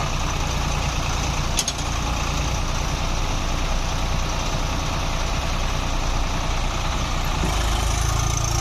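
Swaraj 744 tractor's three-cylinder diesel engine running steadily at idle. There is a sharp click about one and a half seconds in, and the engine gets a little heavier and louder near the end.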